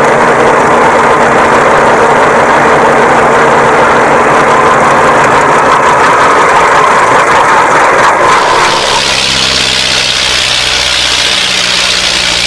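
Tractor engine running steadily and loudly; about eight seconds in the sound changes abruptly to a different, lower engine note.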